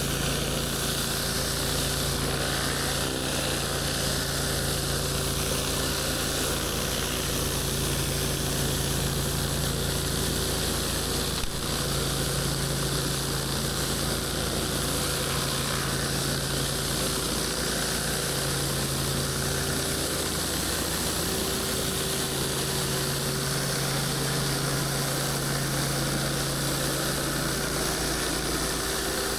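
Pressure washer's gas engine running steadily at constant speed, under an even hiss. There is one brief click about eleven seconds in.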